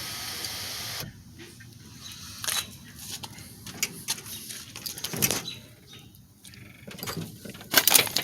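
Cadillac CTS sunroof motor running with a steady whirring hiss that cuts off suddenly about a second in, as the roof panel reaches the end of its travel. Then scattered clicks and knocks, loudest near the end.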